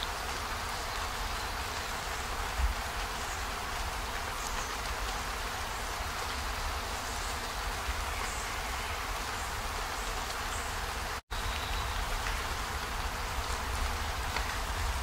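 Steady rain hiss, an even wash of falling rain. A soft low thump sounds once about two and a half seconds in, and the rain cuts out completely for a split second about eleven seconds in before going on.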